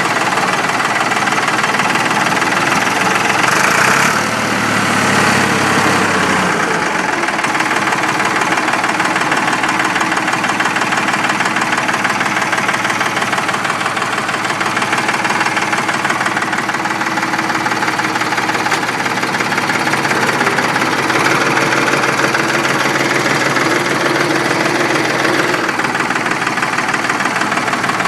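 Ford 4400 tractor's diesel engine running with a knocking clatter just after a cold start at about 40°F with no glow plugs or grid heater. Its speed rises about four seconds in and falls back over the next few seconds to a steady idle.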